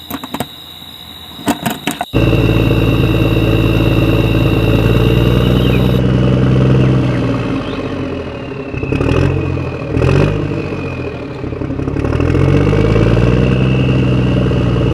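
A few sharp clicks, then an engine sound starts abruptly and runs steadily, its pitch dipping and rising again twice as if being revved, before cutting off suddenly.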